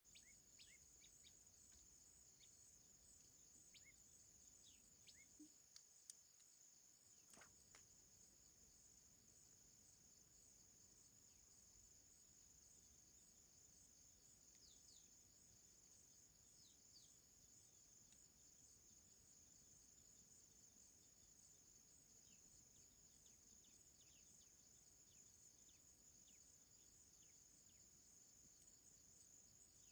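Faint, steady high-pitched chorus of crickets, an unbroken pulsing trill, with scattered short falling chirps from small birds and a few light clicks about six to seven seconds in.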